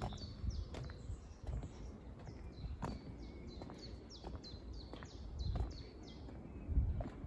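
A songbird singing a long run of short, high, repeated notes, about three a second, each dropping slightly in pitch. Footsteps on a woodland path give low irregular thuds underneath.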